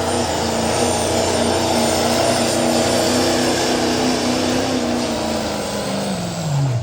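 Diesel pickup truck engine held at high revs with a steady drone, then winding down, its pitch falling away near the end.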